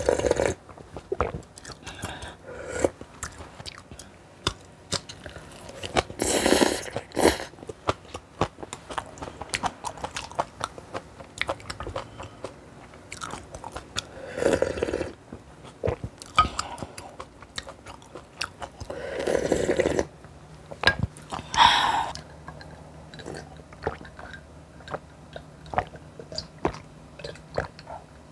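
A person chewing and biting food close to the microphone, with crunching. The crunching is mixed with many small clicks and a few louder, longer sounds between bites.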